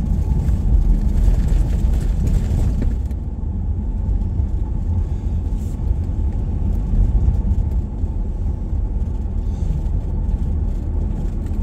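Car driving along a mountain road: a steady low rumble of engine and tyres, slightly hissier for the first few seconds.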